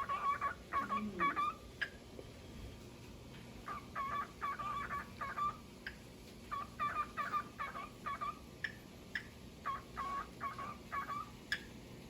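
Cockatiel chirping in four bursts of quick, repeated notes, with short pauses between the bursts.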